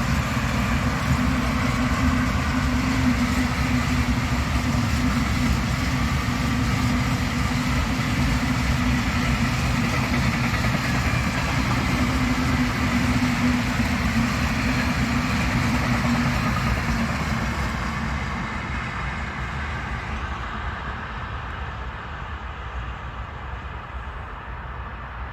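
A train passing on the line: a steady rumble of wheels on rail with a constant hum. It fades away gradually over the last eight seconds or so as the train moves off.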